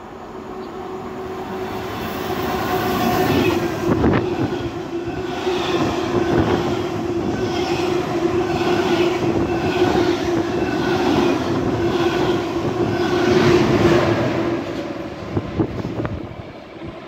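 An SNCB double-deck passenger train passing close by. It grows louder as it arrives, then runs past with a steady hum and a regular clatter of wheels over rail joints. The sound cuts off sharply shortly before the end.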